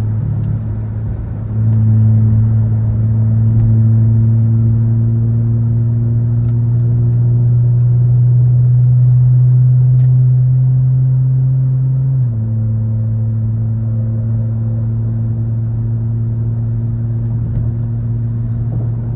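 Car engine and exhaust droning at a low steady pitch while driving. About a second and a half in it gets louder and slowly climbs in pitch, then drops back suddenly about twelve seconds in.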